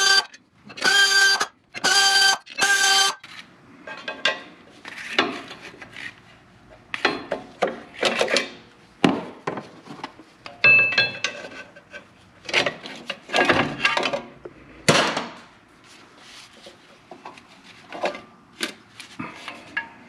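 Clutch being taken off a truck engine with hand tools. Four short squeals in the first three seconds, then irregular metal clanks, rattles and scrapes of tools and clutch parts.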